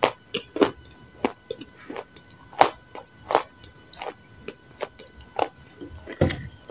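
Close-miked biting and chewing of dry, chalky chunks: sharp, short crunches coming about every half second at an uneven pace. A duller thump comes near the end.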